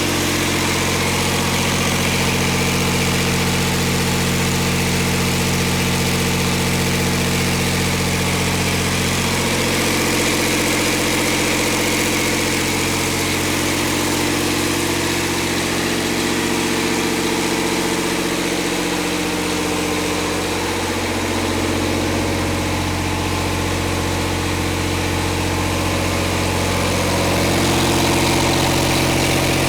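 Scania 13-litre PDE (unit-injector) inline-six diesel engine idling steadily, its tone shifting slightly a few times and growing a little louder near the end.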